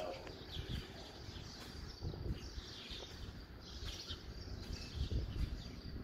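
Small birds chirping, short falling chirps about once a second, over a low rumble of wind on the microphone.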